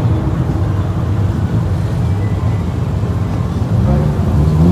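Car engines running with a steady deep rumble. About four seconds in, a pitch rises and falls, as from an engine being revved.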